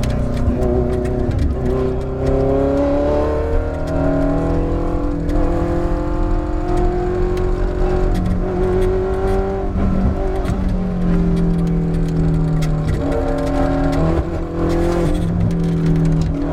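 Ferrari F430 GT race car's V8 engine at high revs, its pitch climbing and then dropping back at each of several gear changes.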